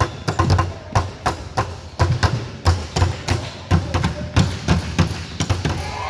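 Basketballs bouncing on a court floor: a run of sharp, irregular thuds, several a second.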